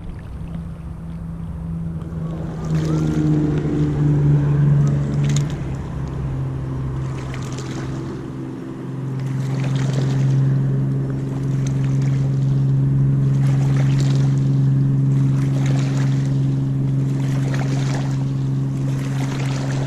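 A motor running steadily with a deep hum, its pitch shifting a couple of times, under wind and water noise with a soft swish every couple of seconds.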